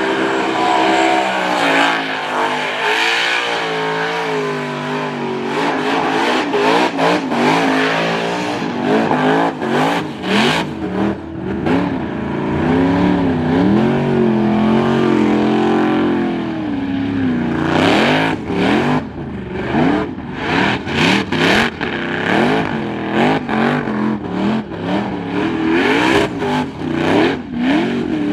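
Supercharged burnout car's engine revving hard while it spins its tyres in a burnout, the pitch swinging up and down. In the second half the engine note stutters on and off several times a second.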